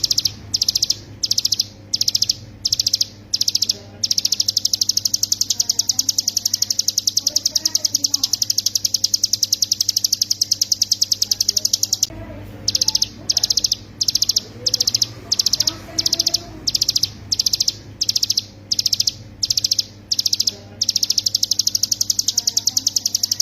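Ciblek gunung, a mountain prinia, singing its fast, high, buzzing trill ('ngebren'): short trill bursts about twice a second that run into a long unbroken trill for several seconds, then a brief pause about halfway, more bursts, and another long trill near the end.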